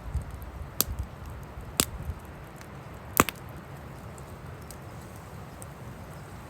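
Firewood burning in an open wood fire, crackling with three sharp pops about a second apart in the first half, the third the loudest, and faint ticks between. Wind rumbles on the microphone.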